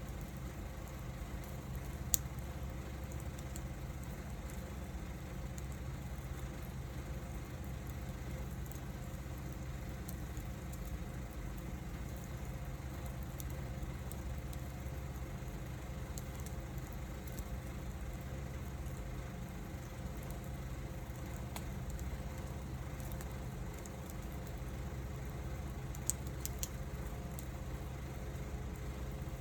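Wood fire burning, with a few sharp crackling pops from the wood, one about two seconds in and a couple near the end, over a steady low rumble.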